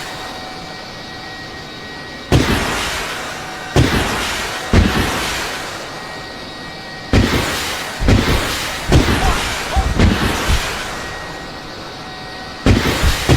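A series of heavy explosions, each sudden and dying away over a second or so: a few spaced out early, then a rapid run of about two a second, and another cluster near the end.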